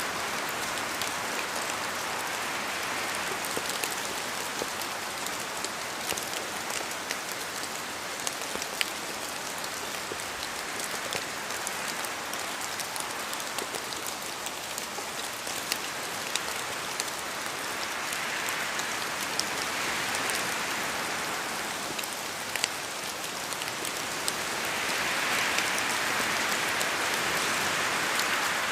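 Steady rain falling in a forest, with many single drops from the trees ticking sharply over the hiss. The rain noise swells a few times as the wind gusts, most strongly near the end.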